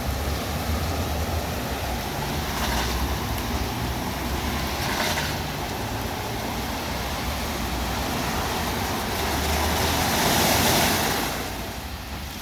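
WashTec SoftCare Pro Classic rollover car wash working over the car: a steady rush of water spray and brushing over a low machine hum, swelling louder about ten seconds in and easing off near the end.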